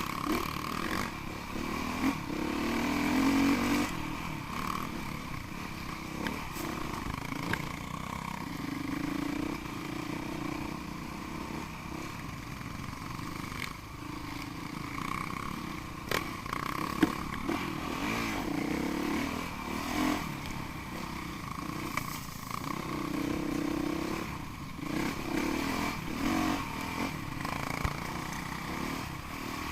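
Off-road motorcycle engines running and revving up and down, with scattered knocks and rattles.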